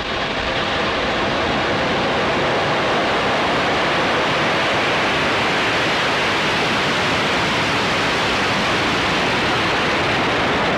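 Falcon 9 first stage's nine Merlin engines firing at liftoff: a loud, steady rush of rocket noise that swells over the first second and then holds.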